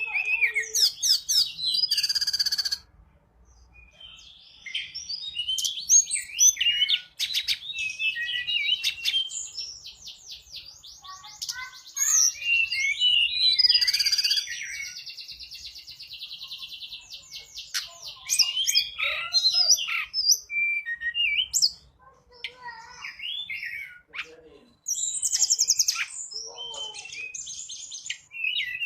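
Tledekan gunung (Sunda robin) singing its lure song: a varied, fast run of chirps, whistled notes and rapid trills, broken by short pauses a few seconds in and again a little past the middle.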